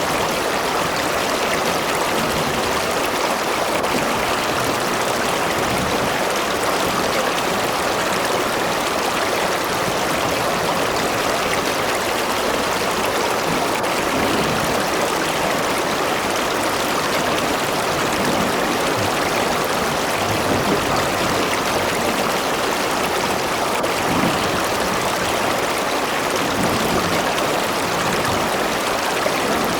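River water rushing and gurgling over rocks, a steady, unbroken flow.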